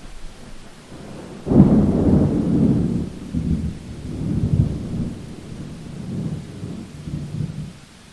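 A thunderclap breaks in suddenly about a second and a half in, then rolls on as a low rumble in several swells that die away near the end. Steady rain hisses underneath.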